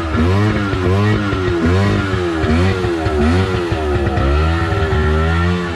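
Jet ski engine revving up and down over and over, a little under twice a second, just after it has been got running.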